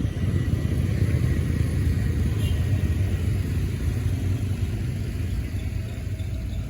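Steady low rumble of a motor vehicle running on the road, without clear revving or sharp sounds.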